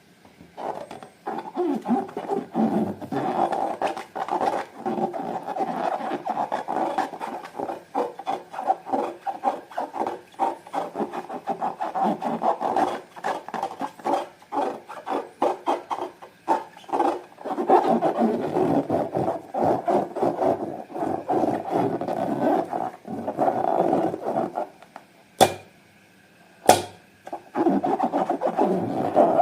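Slime being squished and stirred: a dense, continuous run of wet crackling and squelching. Near the end it stops briefly, and two sharp snaps come about a second apart before the squishing resumes.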